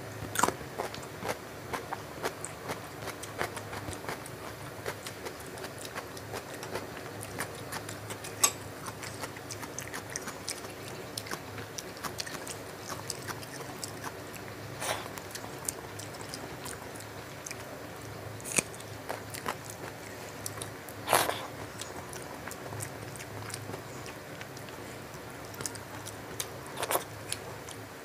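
Close-up mouth sounds of someone chewing soft rice and fish curry eaten by hand: steady wet chewing with many small sharp clicks and smacks, a few of them louder.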